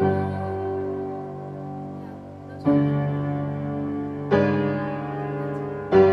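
Slow solo piano music: four sustained chords struck a couple of seconds apart, each left to ring and fade before the next.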